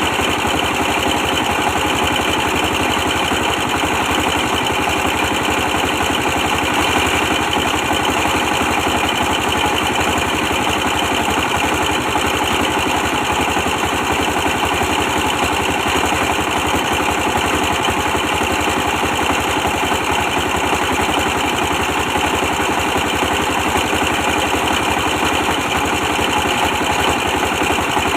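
A 24 hp stationary diesel engine running steadily, powering a brick press, with an even, fast firing pulse.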